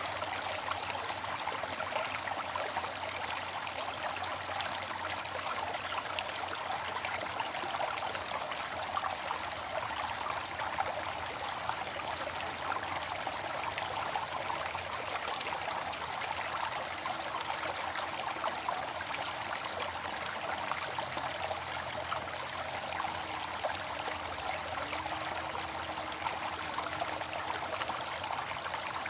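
Water fountain splashing and trickling in a steady, unbroken wash of falling water.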